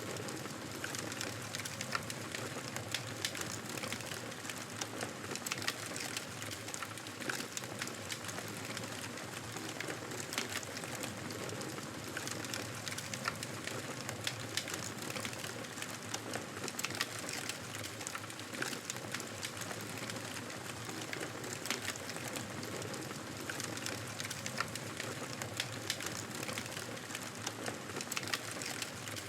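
Campfire burning, with a steady hiss and a continuous scatter of small crackles and pops of burning wood.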